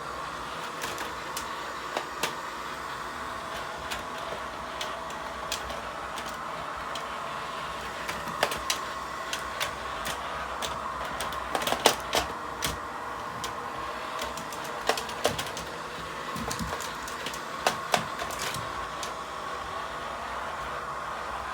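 Robot vacuum cleaner running with a steady whine, with irregular clicks and knocks scattered over it, most frequent around the middle.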